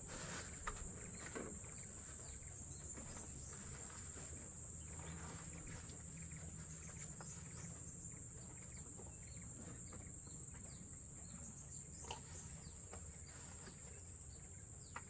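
Steady high-pitched drone of forest insects, with scattered faint clicks and rustles.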